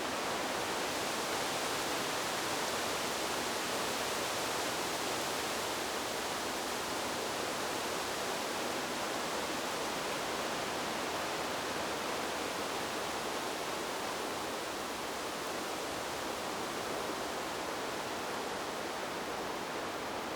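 Wind blowing through trees: a steady, even rushing hiss with no gusts and no separate sounds.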